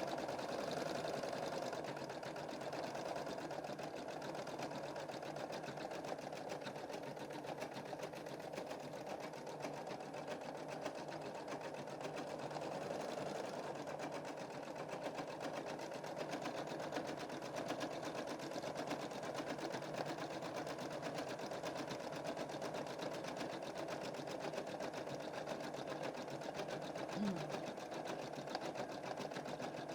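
Embroidery machine stitching a design, its needle running in a steady, rapid run of strokes.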